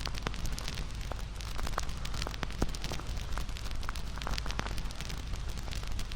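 Wood campfire burning, with a steady low rumble and frequent sharp crackles and pops.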